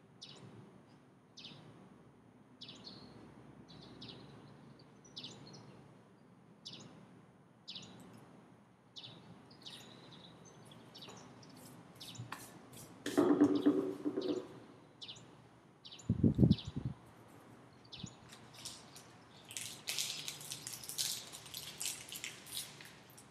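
Crisp little crunches of a Knoppers wafer being chewed, about one every second, followed by a brief low pitched sound and a dull thump. Near the end, a plastic wrapper crinkles steadily in the hands.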